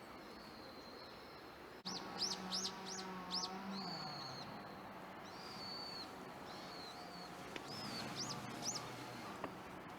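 Small songbird calling: a quick series of sharp, high chirps about two seconds in, then longer, level high notes and a few more chirps near the end, over a faint low hum.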